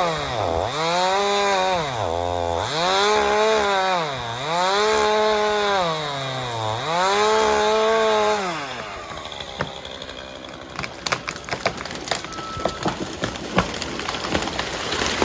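Chainsaw engine revved up and down over and over, about four or five swells about two seconds apart. It then gives way to irregular crackling and snapping.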